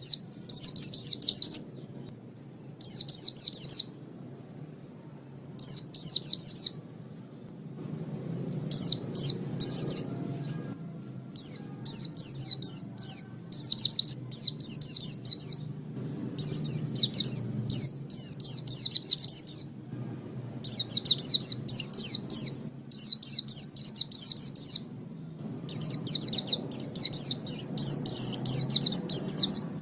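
White-eye (pleci) singing: fast, high twittering phrases a second or two long, with short pauses between them at first and running almost without a break in the second half, over a faint low background rumble.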